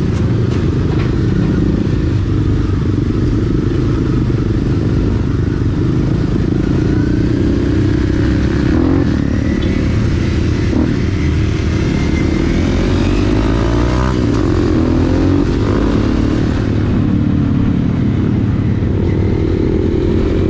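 Motorcycle engine running while being ridden, its pitch rising and falling several times through the middle of the stretch as the rider accelerates and eases off.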